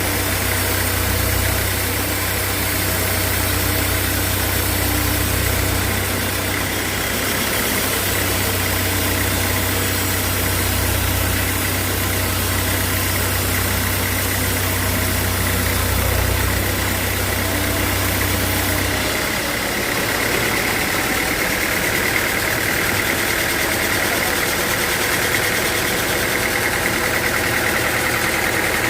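Sawmill machinery running steadily with a loud, even motor drone. About two-thirds of the way through, the low hum drops away and a higher whine grows stronger.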